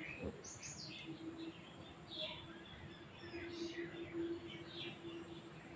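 Faint, scattered short high chirps of birds, several bunched together about half a second in and more dotted through, over a steady faint hum.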